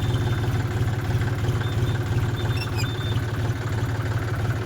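Tractor diesel engine running steadily, a low even rumble of firing pulses.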